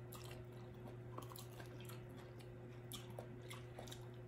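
Faint, close-miked chewing as a piece of crab is eaten: soft, irregular mouth clicks over a steady low hum.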